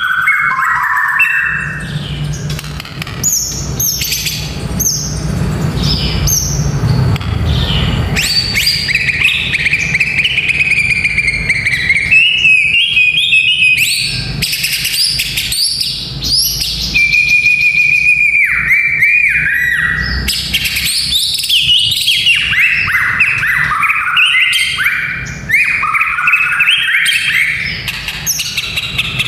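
White-rumped shama (murai batu) singing a long, continuous fighter song: clear whistled phrases, sweeping glides and fast chattering notes.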